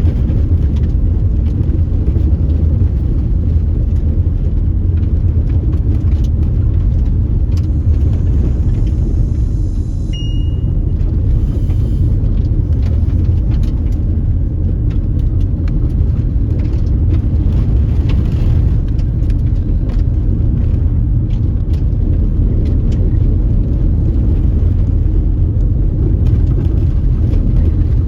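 Steady low rumble of a car driving on a dusty unpaved detour road, with scattered small clicks. A short high tone sounds briefly about ten seconds in.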